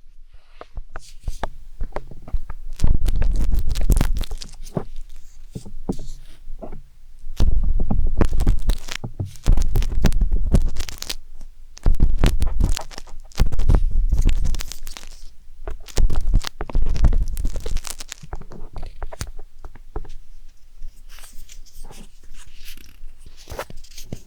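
Wooden tanghulu skewer scraping and scratching inside the silicone ear of a 3Dio binaural microphone: dense crackly scratching, with repeated loud, low rubbing rumbles lasting a second or two each, and lighter scratching over the last few seconds.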